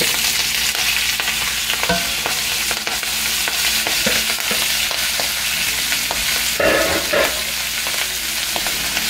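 Shredded cabbage frying in hot butter and olive oil in a cast iron skillet: a steady sizzling hiss, with a few light knocks and a louder clatter about seven seconds in.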